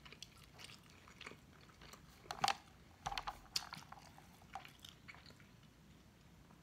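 Faint close-up chewing and mouth noises, with a few sharper clicks and crackles between about two and four seconds in.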